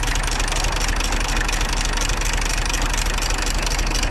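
Tractor engine idling steadily, a constant low rumble with a fast, even beat.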